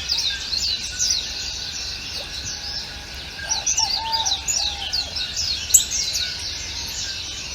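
Several songbirds chirping and singing together, a dense chorus of quick high chirps with a few lower whistled notes about halfway through.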